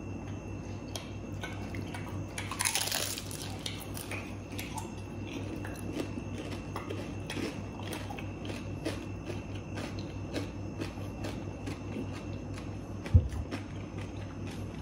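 Close-miked crunching and chewing of crispy deep-fried food, many small crackles, with one louder crunch about three seconds in. A single heavy thump comes near the end, over a steady low hum.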